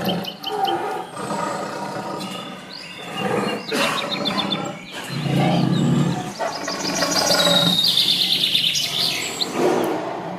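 Lion roaring, the strongest deep call about halfway through, with birds chirping and trilling in the background.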